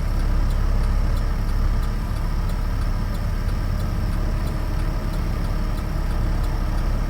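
Steady cabin noise inside a 2013 Chevrolet Avalanche on the move: a low, even rumble of its 5.3-litre V8 and the road.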